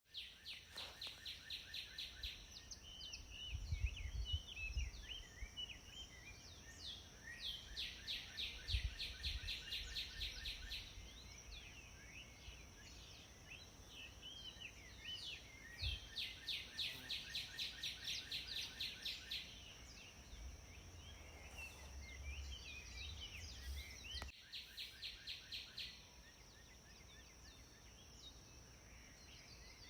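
Several songbirds singing and chirping, one repeating long runs of fast, evenly spaced notes, about four a second, several times over. A steady high-pitched hum runs underneath, with occasional low rumbles.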